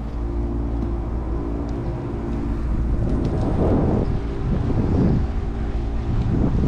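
Steady traffic rumble with the even hum of a nearby vehicle engine. From about halfway through, gusts of wind buffet the microphone of the moving bike.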